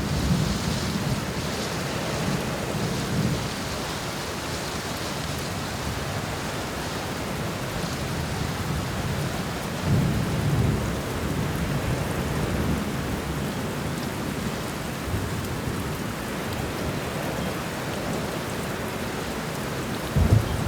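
Steady rain falling with low rolling thunder, the rumble swelling at the start and again about halfway through.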